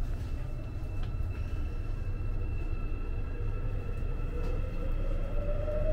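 AREX all-stop commuter train running, heard from inside the car: a steady low rumble, with a whine that rises slowly in pitch over the last second or so.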